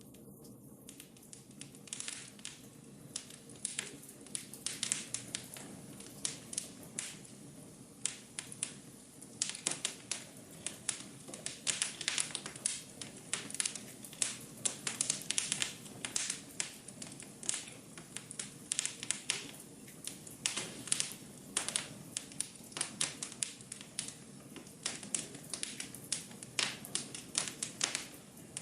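Wood fire in a fireplace crackling: irregular sharp pops and snaps over a low steady hiss, the pops coming much thicker from about ten seconds in.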